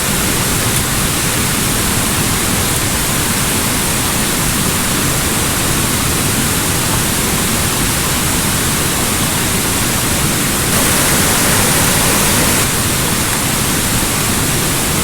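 Close, steady rush of creek water tumbling over cascades, swelling slightly about eleven seconds in.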